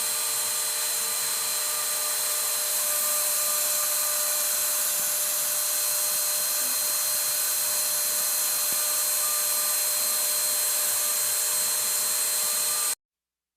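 CNC router spindle running steadily, a constant high whine over hiss, which cuts off abruptly near the end.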